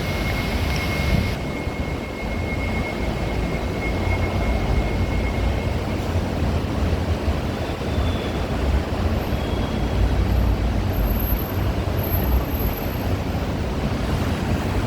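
Several wall-mounted industrial fans running: a steady rush of air with low, uneven wind buffeting on the microphone. A faint high whine fades out about six seconds in.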